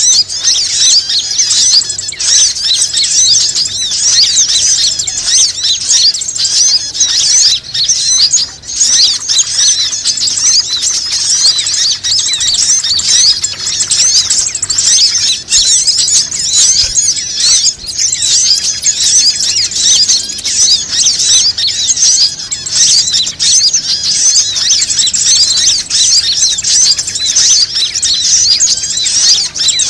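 Dense, unbroken chorus of many small birds chirping and twittering at once, high-pitched and overlapping: a bird-lure (pikat) recording played to call in other birds.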